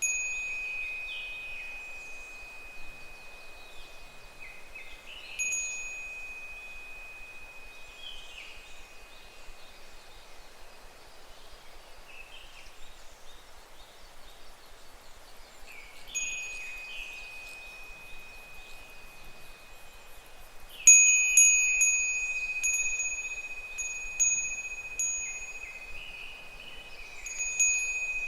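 Japanese wind bell (furin) ringing as the wind sways it: a single clear bell tone struck now and then, each ring fading slowly, then a flurry of quick, louder strikes about two-thirds of the way through.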